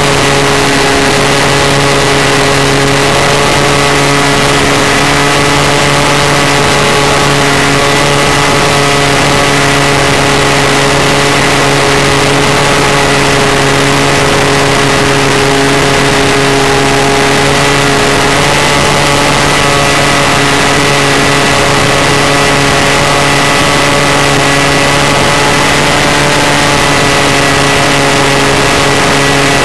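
Falcon 56 RC model airplane's motor running at a steady cruise throttle in flight, heard loud and close from a camera mounted on the plane, with rushing air noise over it. The pitch holds nearly constant throughout.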